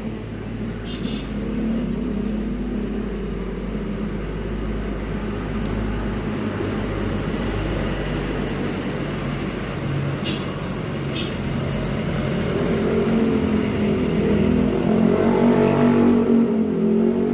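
Motorcycle engine running close by, steady for most of the time, then rising and falling in pitch and growing louder in the last few seconds. A few sharp clicks are heard about a second in and twice around ten seconds in.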